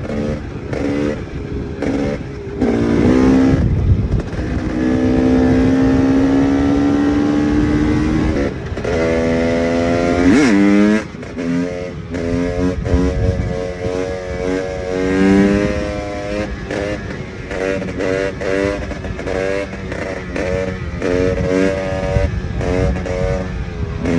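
KTM EXC 300's two-stroke single-cylinder engine under riding load. It pulls steadily with the revs climbing for several seconds, rises sharply about ten seconds in and cuts off, then gives a long run of short throttle blips and chops.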